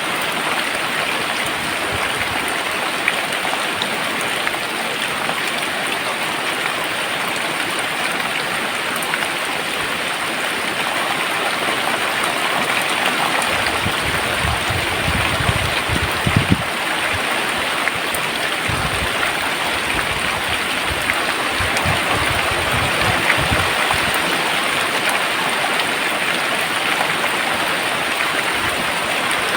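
Very heavy rain pouring down steadily, a dense, even hiss, with some low rumbling about halfway through.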